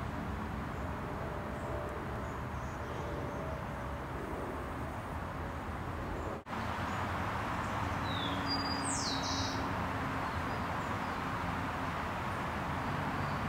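Steady outdoor background rumble with a faint hum. The sound drops out for an instant near the middle, and after that a few short, high bird calls fall in pitch.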